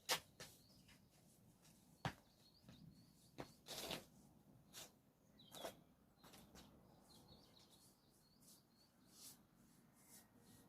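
Quiet outdoor background with a few sharp ticks and a short scrape about four seconds in, and small birds chirping faintly now and then.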